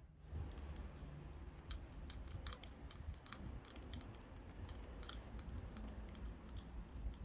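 Faint, irregular small clicks and crackles, a few each second, over a low rumble.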